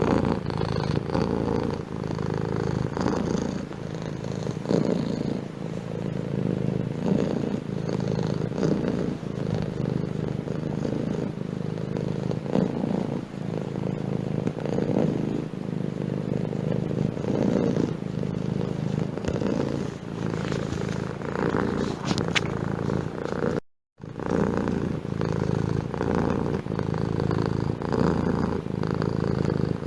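Domestic cat purring close to the microphone, a steady low purr that swells and ebbs with its breathing. The sound cuts out completely for a moment about 24 seconds in.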